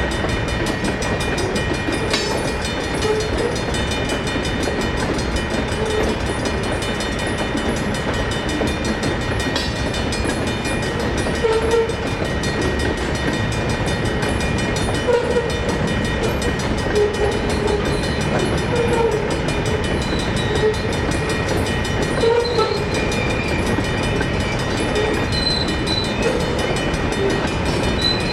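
Freight cars rolling slowly over a railroad crossing as the train is shoved through, with a mechanical crossing bell ringing steadily and short tonal squeals from the wheels.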